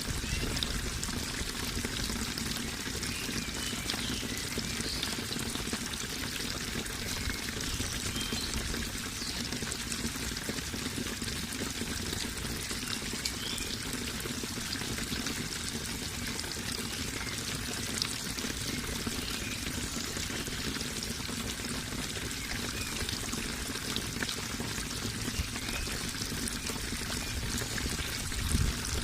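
Steady running water pouring and splashing, with a few brief, slightly louder splashes.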